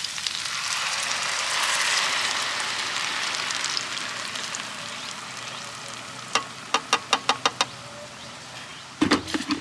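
Blended tomato and chile salsa poured into hot oil with softened onion, sizzling loudly; the sizzle swells about two seconds in and then slowly dies down. Past the middle come a quick run of about seven sharp taps, and near the end a knock.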